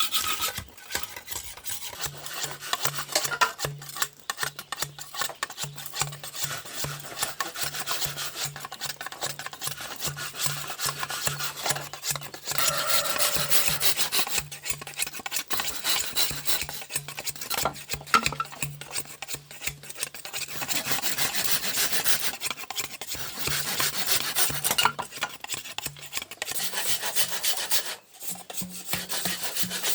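A hand tool rasping on bamboo in quick repeated strokes, with brief pauses between runs of strokes.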